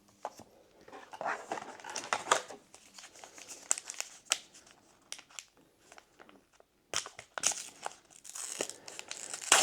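Trading-card booster pack wrapper being torn open and crinkled by hand, in irregular crackles and short rips.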